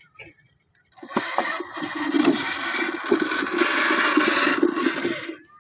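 Diesel tractor engine of a 260 tractor being cranked over, a rapid pulsing mechanical rattle that starts abruptly about a second in and stops after about four seconds.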